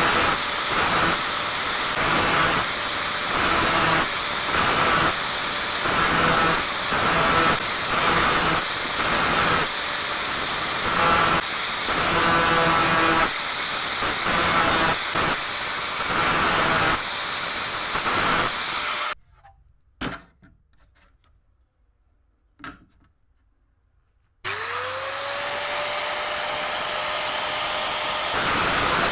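Angle grinder grinding the teeth of a hand saw, one short pass after another at about one and a half a second. About two-thirds in it cuts off into near silence with a couple of clicks, then the grinder motor starts up again, its whine rising and settling into a steady run.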